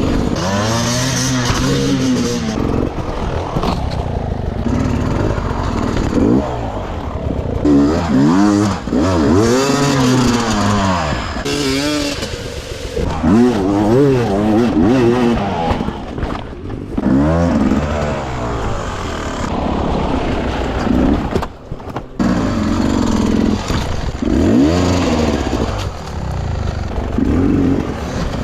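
Dirt bike engine revving up and down over and over as it is ridden, the pitch rising and falling every second or two, with a brief drop in level a little past two-thirds of the way through.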